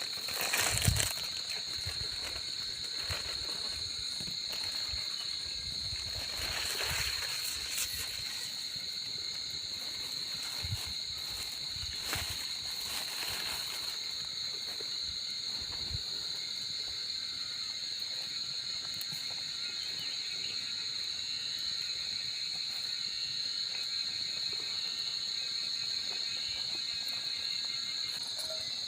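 Crickets chirping in a steady, high-pitched chorus, with a few short rustles and knocks of someone working at a camp cooking spot: the loudest is about a second in, and more come around seven and twelve seconds in.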